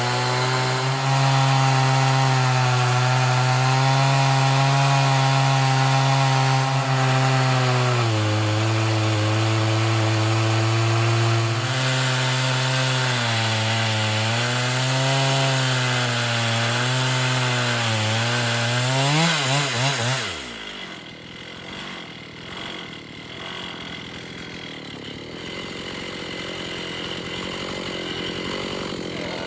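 Chainsaw running at full throttle, ripping a board lengthwise through a pine log in an Alaskan chainsaw mill. Its engine note drops and wavers under the load of the cut, then about twenty seconds in it winds down and stops, leaving only a much quieter noise.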